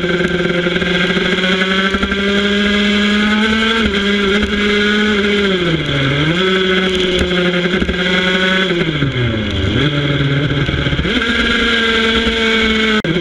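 Small racing motorcycle engine heard from onboard, held at high revs through the corners. Its pitch dips and climbs back twice as the rider rolls off and gets back on the throttle, and drops suddenly near the end at a gear change, over wind rush on the microphone.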